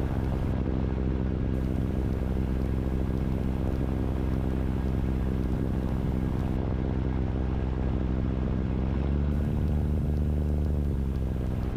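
Steady drone of a Tecnam Sierra light sport airplane's engine and propeller, heard from inside the cockpit, with its tone shifting slightly about two thirds of the way through.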